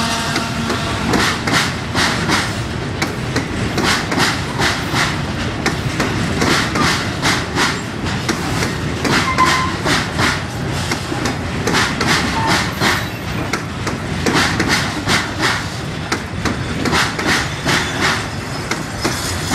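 Loaded Union Railroad coke hopper cars rolling past, their wheels clacking continuously over the rail joints, with now and then a short wheel squeal.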